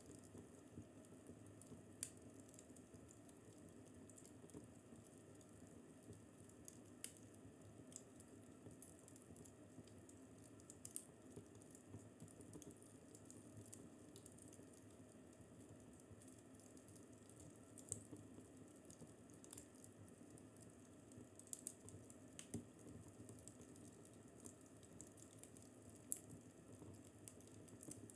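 Wood fire crackling faintly in a fireplace: irregular sharp pops and snaps over a low, steady hiss.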